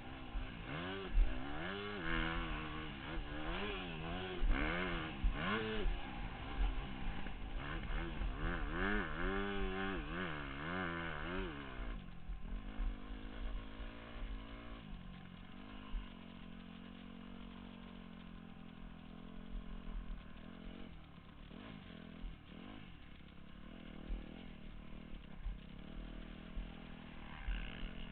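Motocross bike engine revving up and down over and over through gear changes and throttle blips for about the first twelve seconds, then running lower and steadier for the rest.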